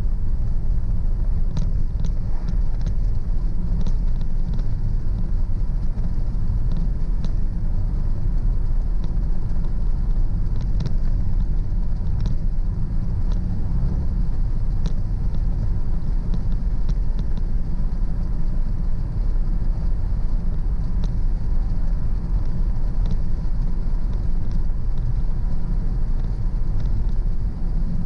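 A car driving at a steady speed: a steady low road-and-engine rumble, with faint light ticks scattered through it.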